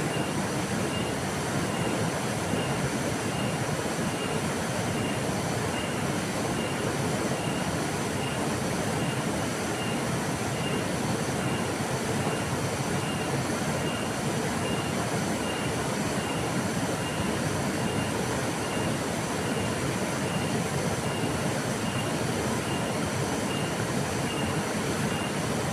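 Flowing river water rushing in a steady, even wash. A faint high chirp repeats evenly, about every two-thirds of a second, above it.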